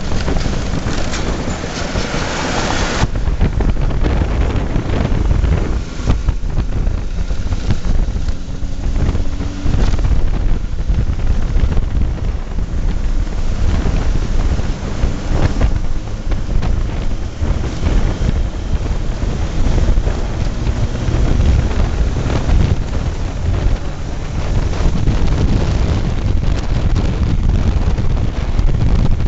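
Yamaha RD350's two-stroke twin running through a 2-into-1 exhaust, heavily buffeted by wind on the microphone.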